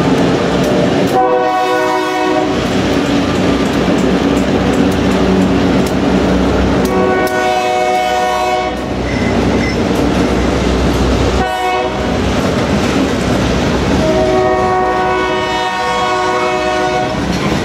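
Freight train rolling along street track, its wheels and cars clattering and the diesel locomotives running, while the lead locomotive's horn sounds long, long, short, long: the grade-crossing signal.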